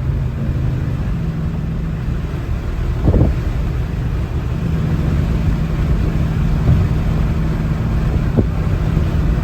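Straight-piped Dodge Charger R/T V8 exhaust droning steadily while cruising, with a short thump about three seconds in.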